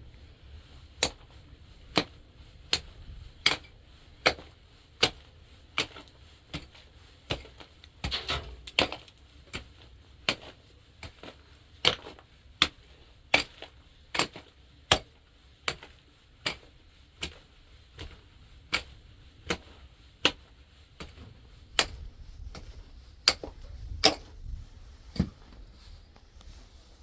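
A long series of sharp blows, a tool striking something hard at a steady pace of roughly one and a half a second, with a brief flurry of lighter knocks about eight seconds in.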